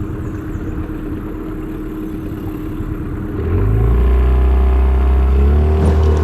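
Small outboard motor on a jon boat running steadily, then throttled up about three and a half seconds in, getting louder with a slightly rising pitch.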